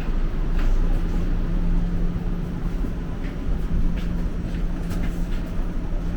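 TTC Flexity Outlook streetcar running on rails: a steady low rumble with a constant motor hum and scattered short clicks and knocks from the wheels and track.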